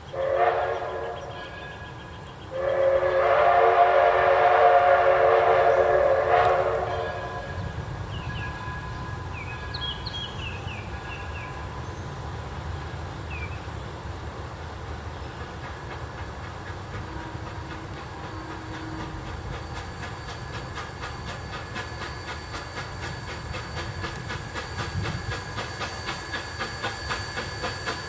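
Steam locomotive whistle: a short blast, then a longer blast of about four seconds, followed by the steady running noise of the train, with a regular beat growing stronger toward the end.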